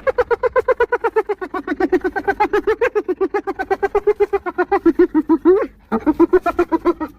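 Spotted hyena giggling: a long run of rapid, short, high yelping notes, about eight a second, dipping slightly in pitch as it goes on. It breaks off near the end and starts up again in a shorter run.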